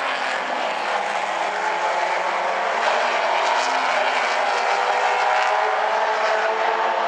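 A field of late model stock cars racing around a short oval, their V8 engines running at speed in a steady dense drone of several engines at once.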